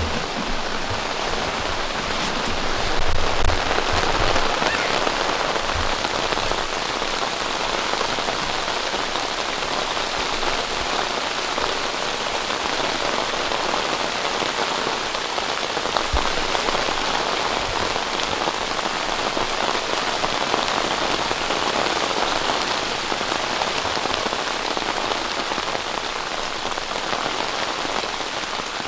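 Heavy rain coming down hard and steadily during a thunderstorm, with a few low thumps in the first several seconds.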